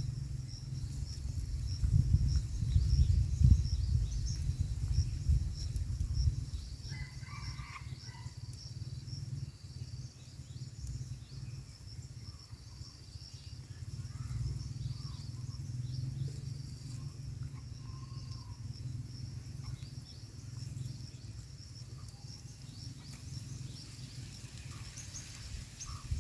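Outdoor ambience with insects chirring steadily in a high band over a low rumble that is loudest in the first few seconds, and a brief bird call about seven seconds in.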